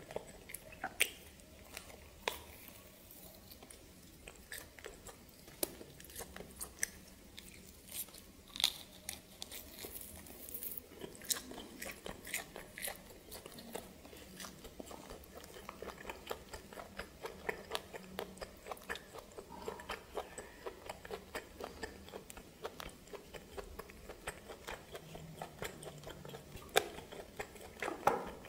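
Close-miked mouth sounds of biting and chewing steamed snake: an irregular run of small clicks and crunches, growing busier about halfway through.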